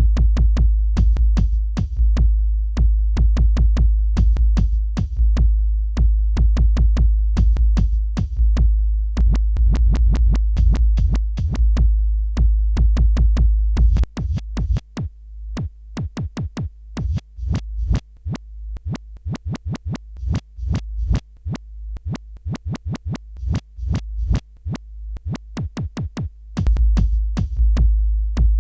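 Instrumental electronic beat: a drum machine pattern of rapid hits over a heavy sustained bass. The bass drops out about halfway through, leaving the drums and a thin low tone, and comes back in near the end.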